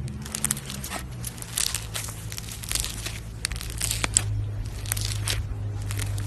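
Slime being squeezed and worked by hand, making an irregular run of crunchy crackles and pops over a steady low hum.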